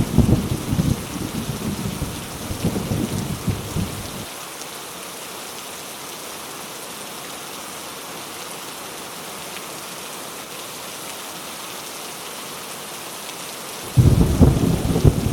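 Heavy rain falling steadily, with thunder. A rumble of thunder dies away about four seconds in, leaving only the even hiss of the rain, and a new clap of thunder breaks in suddenly near the end.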